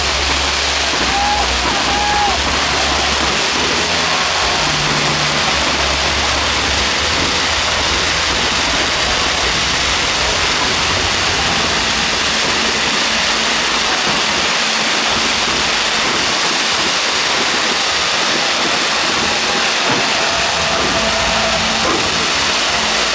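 Steady roar of a large stadium crowd, an even wash of noise with no distinct bangs.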